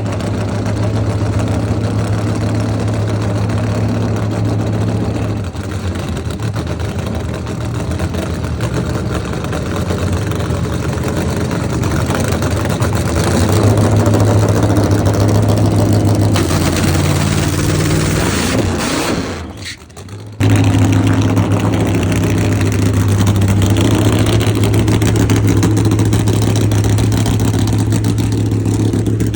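A motor vehicle's engine running steadily with a low hum. It cuts out briefly about twenty seconds in, then comes back at the same level.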